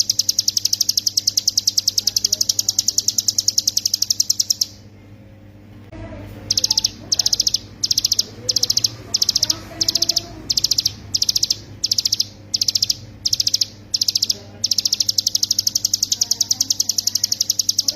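Ciblek gunung (a mountain prinia) singing its high, fast rattling 'ngebren' trill. The trill breaks off about five seconds in. It comes back as a string of a dozen or so short bursts, then runs on unbroken again in the last few seconds.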